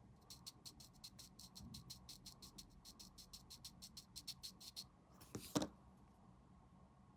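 Quick, even strokes of an abrasive rubbing on a plastic model-kit part, about six or seven a second, as a piece is filed or sanded smooth. They stop near the five-second mark, and a single louder knock follows, like the part or tool being set down.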